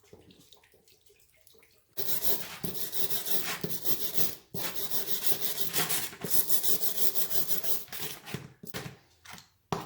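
Rapid back-and-forth scrubbing of small metal parts wet with mineral spirits, starting about two seconds in after a quiet stretch, with a few brief pauses between bouts of strokes.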